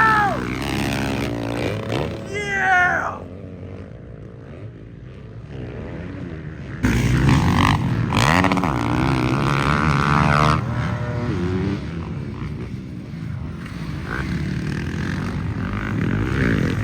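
Motocross dirt bike engines revving up and down as they ride the track, quieter for a few seconds and then abruptly louder about seven seconds in.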